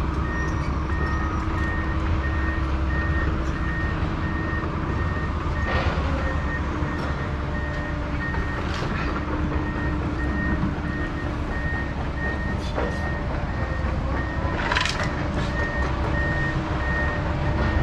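Backup alarm of a reversing truck or piece of heavy equipment beeping steadily at an even pace, over a low engine rumble. A few short knocks stand out, the loudest about three-quarters of the way through.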